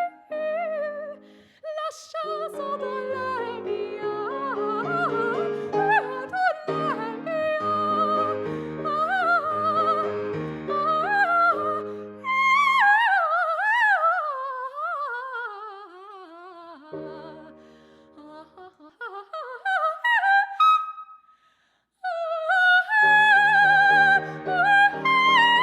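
Operatic soprano singing coloratura with piano accompaniment. About halfway through, the voice sings a long unaccompanied descending run with vibrato and climbs back up. After a brief break it holds a high note with vibrato over piano chords.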